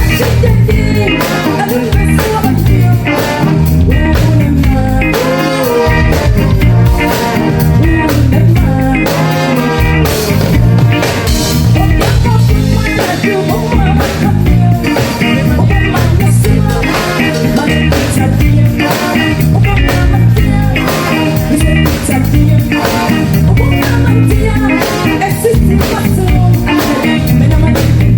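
Live band playing loud amplified music: electric guitar over bass and drums, with a steady beat.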